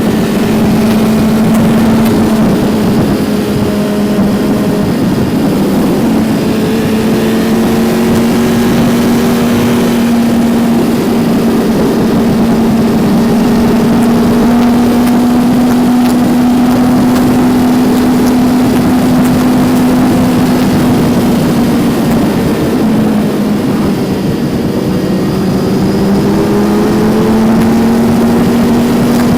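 Kawasaki Z900's inline-four engine running under way at a fairly steady speed. Its pitch drifts gently up and down with the throttle, over a steady rush of wind noise.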